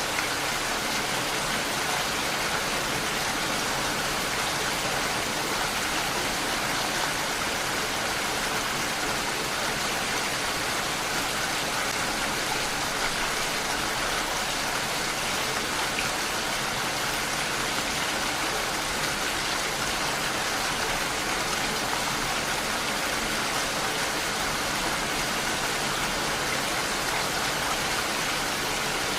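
Steady rain falling, a dense, even hiss of drops with no single drops standing out.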